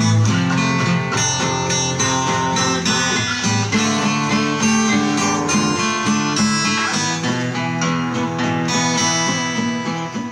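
Acoustic guitar strumming and picking a quick instrumental passage with no singing. It begins to fade near the end.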